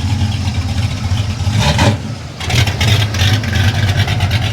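Car engine running with a low, rapidly pulsing rumble, dropping briefly about two seconds in before picking up again.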